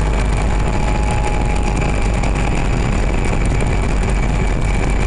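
1993 EZGO gas golf cart engine running steadily while warming up just after a choke cold start following winter storage.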